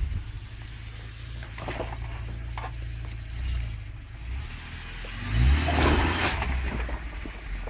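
Vehicle road and engine rumble, with a few short knocks. About five and a half seconds in comes a sudden loud thump, followed by about a second of noisy scraping.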